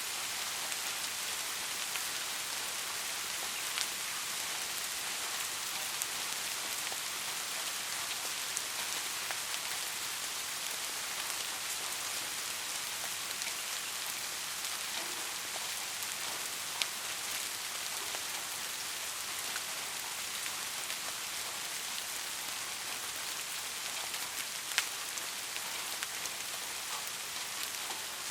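Steady rainfall, an even hiss with the sharper ticks of single drops landing now and then, a few of them louder.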